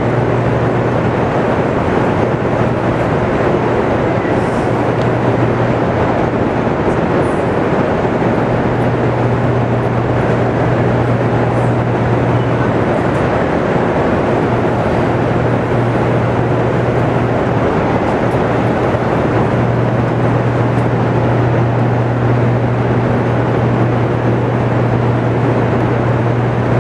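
Hoover Dam's hydroelectric generators running in the powerhouse hall: a loud, constant low hum under an even roar of machine noise.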